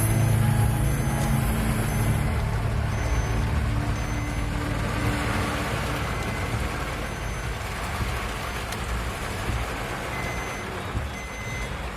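A motor vehicle engine running over a steady hiss, with faint short high-pitched beeps repeating through the clip. The engine is loudest in the first few seconds and then eases off.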